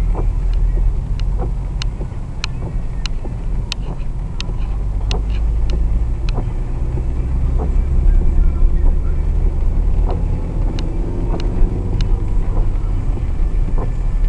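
Car driving in the rain, heard from inside the cabin: a steady low road and engine rumble, with scattered sharp ticks of raindrops striking the car.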